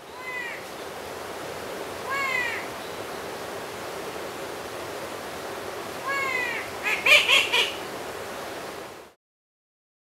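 A bird giving short, harsh calls that bend down in pitch, three times a few seconds apart, then a louder run of several calls a little past the middle, over a steady background hiss.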